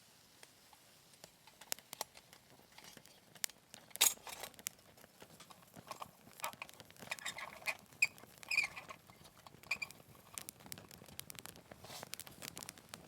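Small wood fire crackling, with irregular sharp pops and snaps, the loudest about four seconds in.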